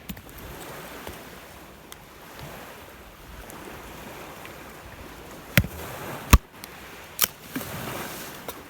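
Rough lake waves washing onto the shore, a steady rushing noise, with three sharp knocks in the second half, the loudest about six seconds in.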